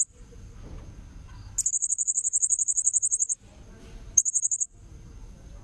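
Serindit (blue-crowned hanging parrot) calls from a lure recording: a rapid trill of shrill, high repeated notes. One run lasts about two seconds, beginning a second and a half in, and a short burst follows about four seconds in. A faint steady high tone continues underneath.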